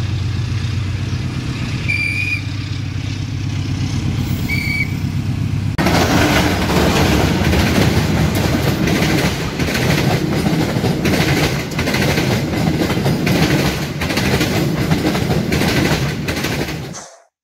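A CC201 diesel-electric locomotive running with a steady low engine hum as it approaches. About six seconds in, the sound changes to the loud rumble and rhythmic clicking of the locomotive's and coaches' wheels as they pass close by, which stops abruptly just before the end.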